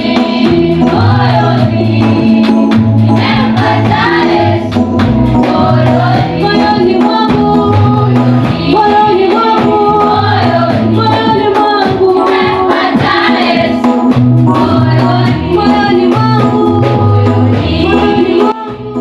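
Church youth choir singing a gospel song together, over instrumental backing with a stepping bass line.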